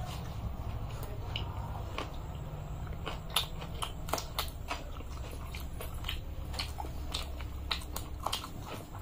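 Close-miked eating sounds: two people chewing mouthfuls of luchi with aloo bhaja, with sharp, irregular mouth clicks and lip smacks several times a second over a steady low hum.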